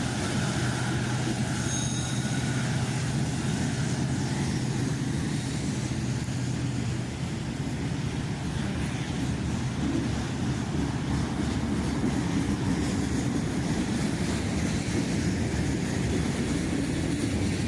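Norfolk Southern freight train passing at close range: a steady rumble of cars rolling on the rails, with a low locomotive engine hum that fades out about seven seconds in.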